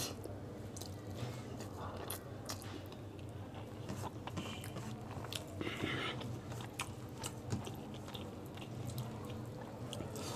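Close-miked chewing of chicken biryani eaten by hand, full of wet smacks and small sharp mouth clicks, over a steady low hum.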